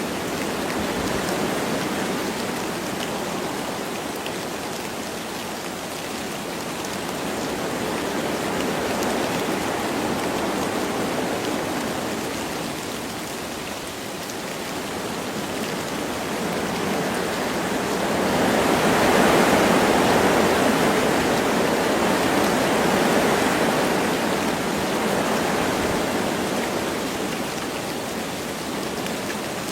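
Wind blowing through forest trees with light rain, a steady rushing that swells and eases in slow gusts; the strongest gust comes about two-thirds of the way in.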